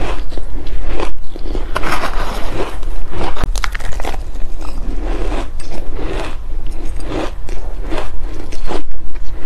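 Close-up crunching and chewing of frost-covered frozen mixed vegetables, many quick irregular crunches one after another, with a metal spoon scraping the container between mouthfuls.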